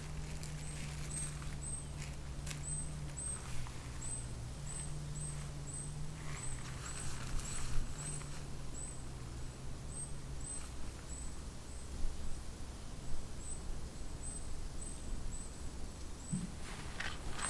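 Snowy forest ambience: a steady low wind rumble, with a faint, high chirp repeating about twice a second and a few faint clicks.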